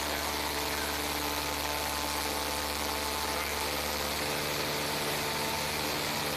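Light aircraft's piston engine running steadily at high power during takeoff and climb-out, heard from inside the cockpit as a constant drone over rushing air. About four seconds in, the deepest part of the drone shifts slightly.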